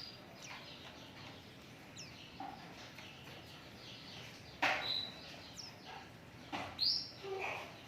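White-eye (pleci) calling: short, high chirps and sweeping notes, with two louder calls a little past halfway and again near the end.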